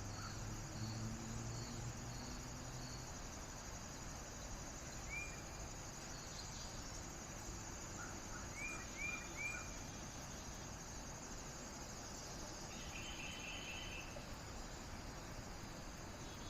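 Outdoor ambience of insects trilling steadily and high. A few short bird chirps sound over it, three in quick succession a little past the middle, and there is a faint low hum in the first few seconds.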